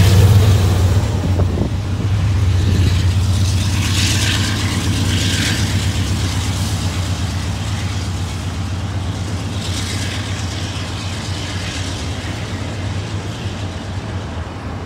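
Norfolk Southern GE AC44C6M diesel locomotives running, a deep steady engine drone that slowly fades as they pull away. Over it, the rushing rumble of double-stack intermodal cars rolling along the rails swells briefly a few times.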